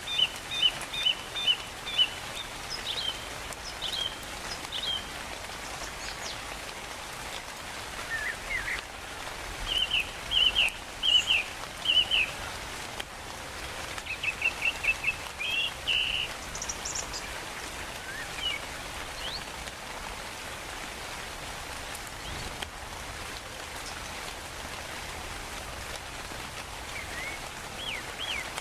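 Steady rain with birds calling over it: several bursts of quick, repeated chirping phrases in the first half, then mostly rain alone with a couple of faint calls near the end.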